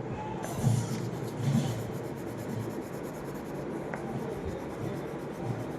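Colouring strokes on paper: scratchy scrubbing of a crayon-like stick, with two louder strokes about half a second and a second and a half in.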